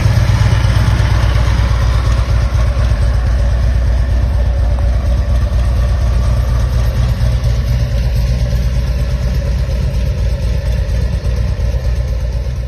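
2013 Harley-Davidson Electra Glide Classic's V-twin engine idling steadily.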